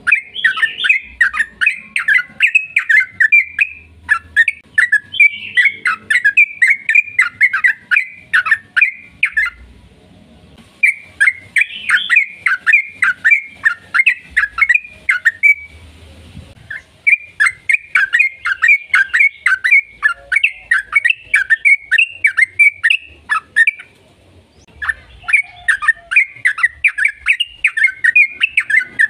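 Yellow-vented bulbul singing a long, rapid chattering song of quick notes. It comes in four long bouts broken by short pauses of about a second, the kind of extended song used to provoke other trucukan into singing.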